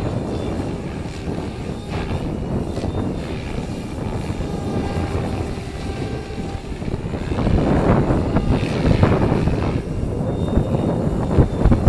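Radio-controlled helicopter with 470 mm main blades (stretched MSHeli Protos) flying, its rotor and motor heard under heavy wind buffeting on the microphone. The buffeting swells louder about two-thirds of the way through.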